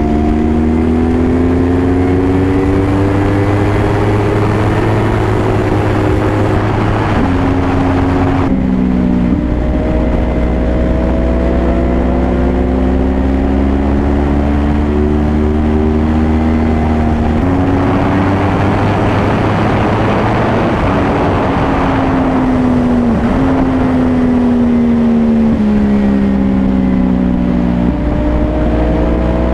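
Yamaha YZF-R1 crossplane inline-four engine under hard riding, its pitch climbing and falling with the throttle and jumping sharply at several gear changes, over steady wind rush.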